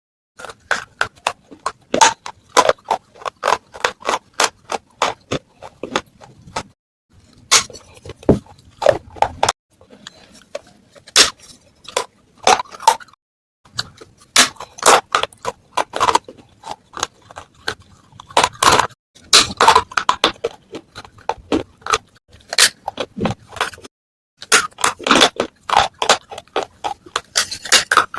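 Pieces of a baked clay matka pot being crunched and cracked, giving rapid, sharp, brittle crackles with a few brief pauses.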